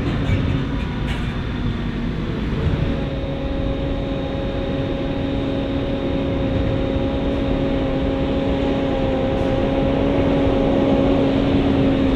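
Heavy diesel farm machinery at the maize harvest running steadily: a loud, even drone with a humming tone that shifts slightly about two and a half seconds in.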